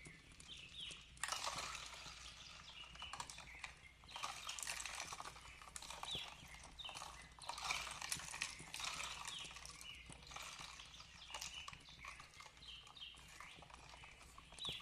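Fire crackling with dense, irregular pops over a soft hiss, with small birds chirping in short falling notes.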